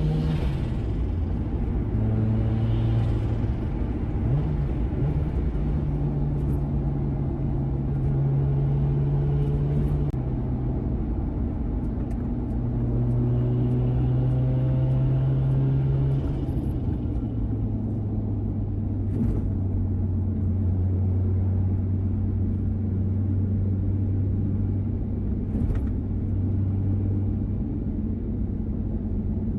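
Mazda RX-7 FD's turbocharged twin-rotor rotary engine, freshly overhauled to high compression, idling through a Dolphin muffler with a steady rumble. The idle speed shifts between a few levels and settles lower a little past the middle.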